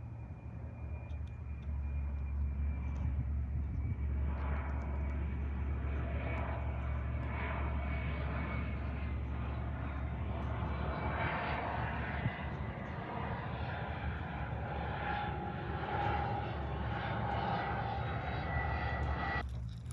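Steady low rumble with a rushing, engine-like noise that grows louder about four seconds in and cuts off suddenly just before the end.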